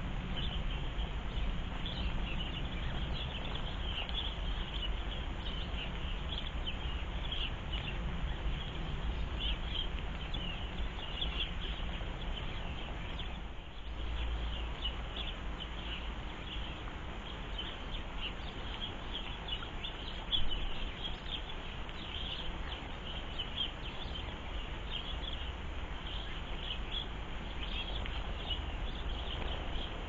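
Small garden birds chirping continuously in short, rapid calls over a steady low background rumble, with one brief sharp knock about twenty seconds in.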